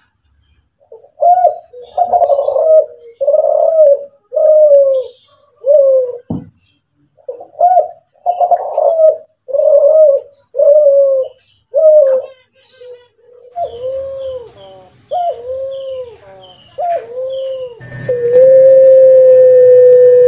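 Derkuku Kelantan, a spotted dove variety, cooing in a long run of short, evenly repeated coos, about one and a half a second. The coos then change to a series of arching notes. There is a single knock about six seconds in, and a long steady tone near the end.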